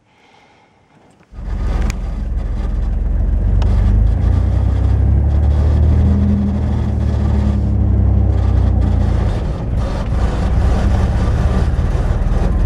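Chevy 4x4 pickup truck's engine running under load with a loud, steady low rumble, starting suddenly about a second in, as the truck fails to climb an icy hill.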